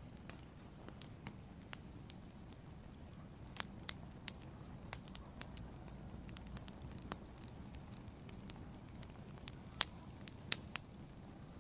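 Wood fire burning in a fireplace: a soft low rumble of flames with irregular sharp crackles and pops from the logs, a few of them louder, around four seconds in and again near ten seconds.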